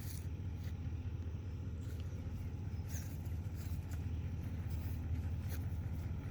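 A vehicle engine running steadily at low speed, with a few faint clicks and knocks over it.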